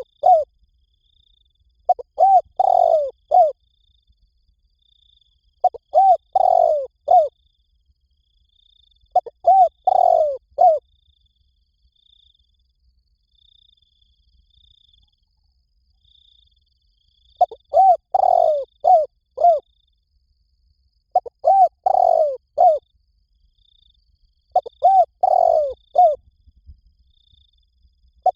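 Spotted dove cooing: a phrase of about four low, rolling coos repeated every three to four seconds. There is a pause of several seconds in the middle before the phrases resume.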